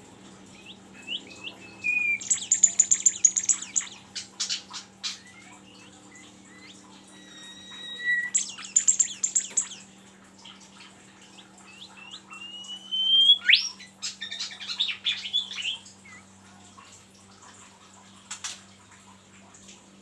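A songbird singing in three bursts of rapid, chattering trills, broken by short rising whistles and single sharp chips. A faint steady hum runs underneath.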